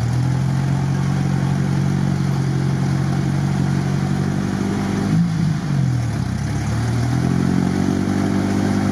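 Off-road 4x4 engine running at raised revs under load during a winch recovery in mud. Its pitch dips briefly about five seconds in and climbs back up about two seconds later.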